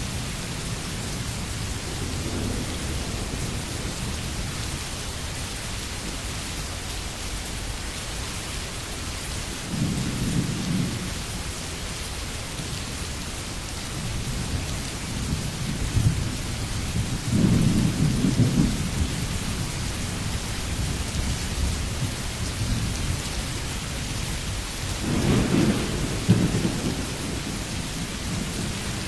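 Steady rain falling, with low rolls of thunder about ten, seventeen and twenty-five seconds in; the last roll is the loudest.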